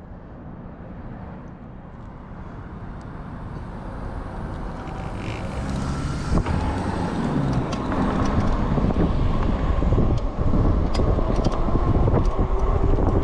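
Wind buffeting the microphone and rumbling road noise, growing steadily louder, as from an e-bike picking up speed.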